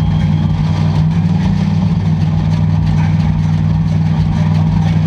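Demolition derby car engines running: a loud, steady low drone.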